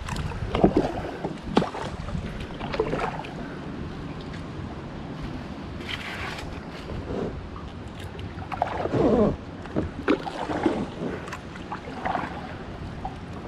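Kayak paddle strokes dipping and splashing in the water at an uneven pace, with drips from the blades, over a low wind rumble on the microphone.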